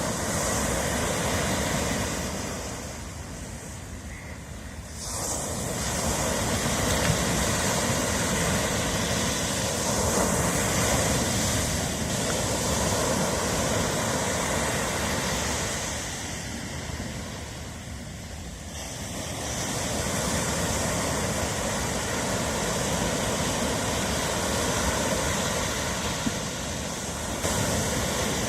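Ocean waves washing onto a shore: a steady rush of surf that swells and ebbs, easing off twice, a few seconds in and again a little past the middle.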